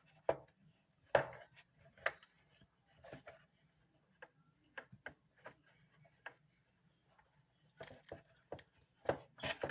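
Scattered light clicks and knocks of plastic humidifier parts being handled while rubber hoses are worked onto the water pipe, irregularly spaced, with a few louder knocks near the start and just before the end.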